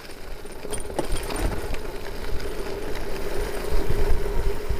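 Mountain bike rolling fast down a dirt road, with a steady buzz setting in about a second in, scattered clicks and heavy wind rumble on the microphone.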